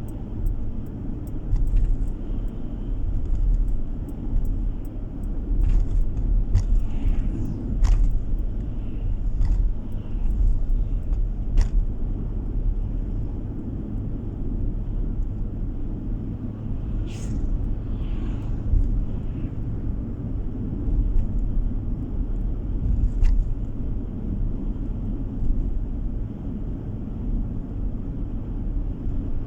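Car driving along a road: steady low engine and tyre rumble, with a few brief clicks and ticks scattered through it.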